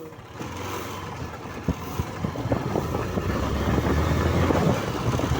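Motorcycle riding on the road: the engine runs under a rushing haze of wind on the microphone that grows steadily louder as the bike picks up speed, with a couple of short knocks about two seconds in.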